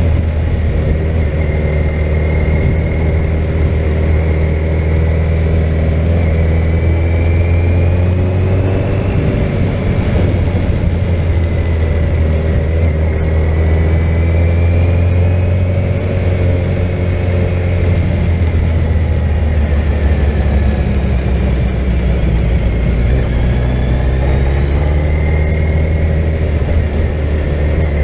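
Suzuki GSX1400 inline-four motorcycle engine running at a steady road cruise, with wind noise over the ride; the engine note rises and falls gently a few times.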